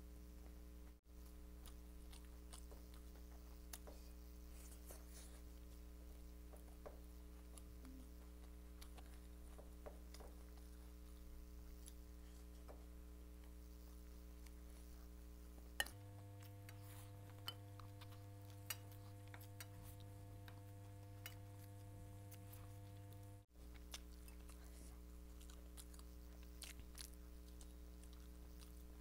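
Faint chewing and soft mouth clicks of someone eating fried rice by hand, over a steady low electrical hum.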